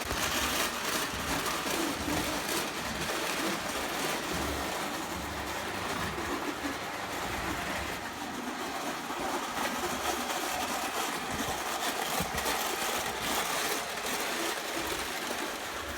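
Prewar Lionel 0 gauge toy train running on track, its electric motor whirring and its wheels rumbling over the tinplate rails in a steady mechanical clatter.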